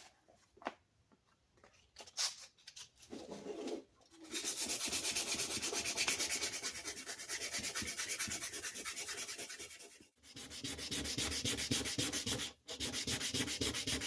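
Sanding of a wooden chisel handle: a dense, evenly pulsing scratchy rasp that starts about four seconds in and runs in three stretches, with short breaks near ten and twelve and a half seconds. Before it come a few light clicks and handling noises.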